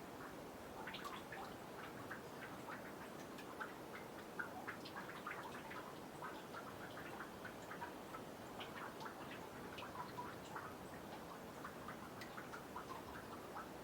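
Meltwater from snow dripping off a boardwalk into a nearly frozen pond: many small, irregular drips and ticks, several a second, over a faint hiss.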